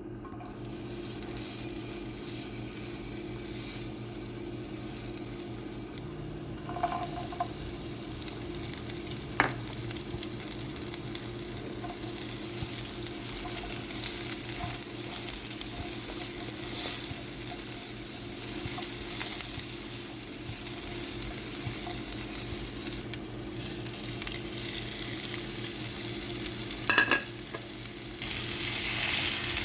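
Food sizzling in hot oil in a frying pan as it is stirred, with a few sharp clinks of the utensil against the pan.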